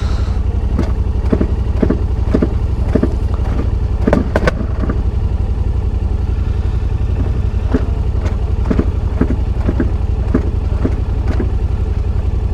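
Motorcycle engine idling steadily, with irregular sharp clicks and knocks over it, several close together about four seconds in and more spread through the second half.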